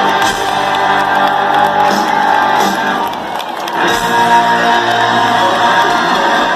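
Live band music with electric guitar, played loud, with crowd noise mixed in.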